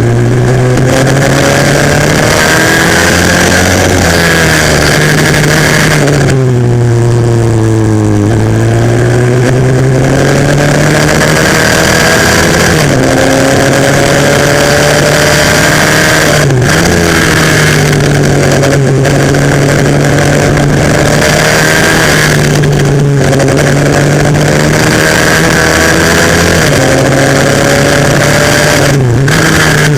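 A 140cc single-cylinder four-stroke pit bike engine at racing revs, heard onboard: its pitch climbs under throttle and falls away again over and over, with several sharp brief dips off the throttle.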